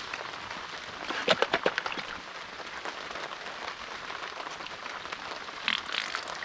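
Steady rain falling, with a short run of sharp clicks and taps about a second in and a few more near the end.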